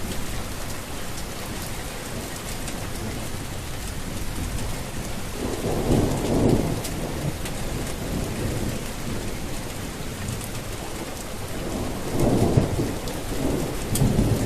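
Steady heavy rain with two rolls of thunder, one about six seconds in and one near the end.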